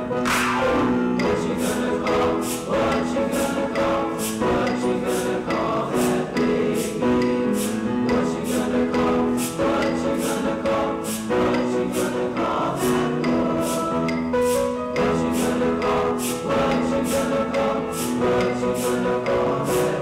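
Junior high school choir singing in harmony with accompaniment, held chords over a crisp steady beat about twice a second.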